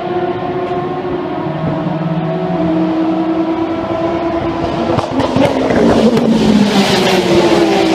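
Endurance race car engines at speed on track. One engine holds a steady note, then a louder car closes in about five seconds in, its pitch dropping, with a few sharp cracks as it passes.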